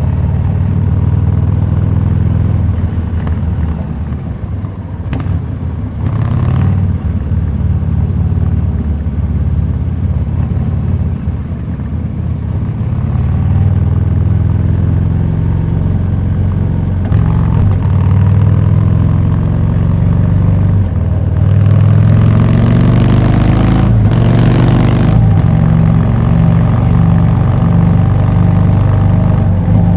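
Harley-Davidson Street 750's liquid-cooled V-twin running through a Vance & Hines slip-on exhaust while riding, its pitch rising and falling with the throttle. A burst of rushing noise comes over it a little past two-thirds of the way through.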